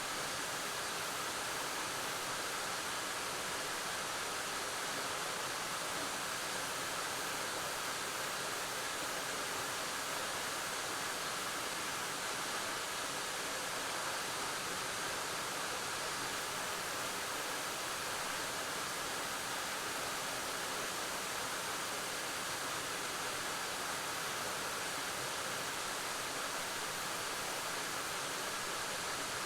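Waterfall pouring steadily: an even, unbroken rush of falling water with no distinct events.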